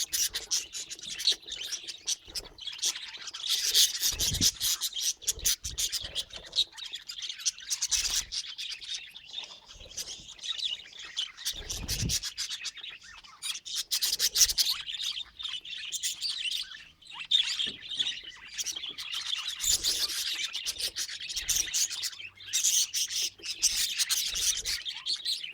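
A flock of budgerigars chattering and chirping continuously, a dense, scratchy warble with a few soft low thumps mixed in.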